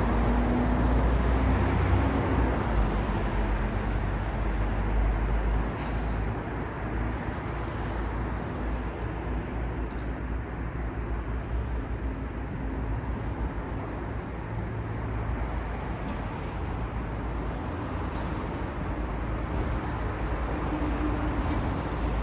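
City street traffic: motor vehicles passing with a steady low rumble of engines and tyres, louder at the start and again near the end. A single short click about six seconds in.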